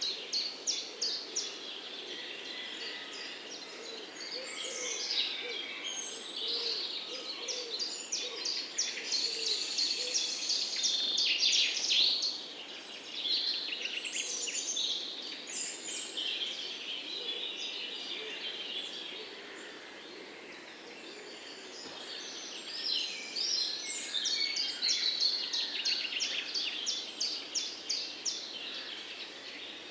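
Several songbirds singing and chirping together, with fast repeated trills and short whistled notes that overlap throughout.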